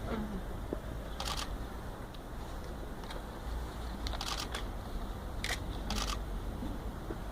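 Camera shutters clicking a few times, some in quick pairs, over a low steady outdoor rumble.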